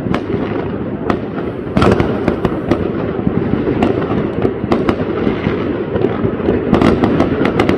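New Year's fireworks going off in many places at once: a continuous crackle of distant bursts, with sharper single bangs every second or so and a cluster of them near the end.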